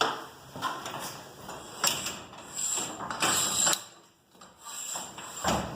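Metal hardware of a garage door torsion spring system being handled: a series of clicks, clinks and scrapes, with a heavier knock near the end.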